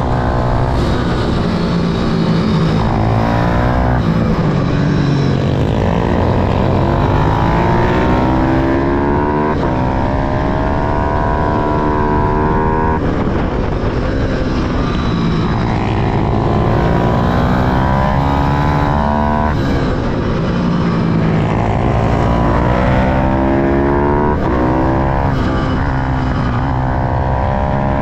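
Small pit-bike-class motorcycle engines accelerating hard, their pitch climbing and then dropping sharply at each upshift, over and over. More than one engine is heard at once, each rising on its own line.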